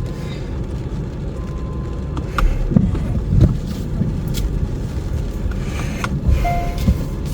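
Kia EV6 driving on a wet road in heavy rain: steady low tyre and road rumble, with a few sharp clicks scattered through.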